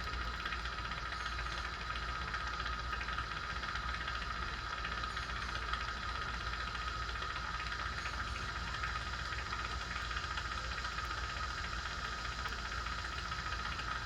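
Jeweler's soldering torch with a size 4 tip burning with a steady hiss while it heats solder on a chain link.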